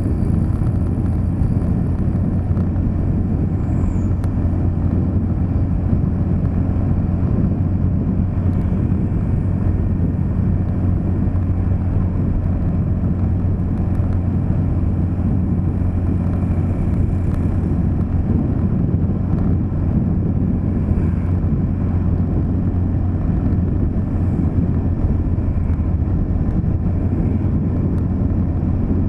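A car driving steadily along a road: a constant low rumble of engine and tyres that holds even throughout.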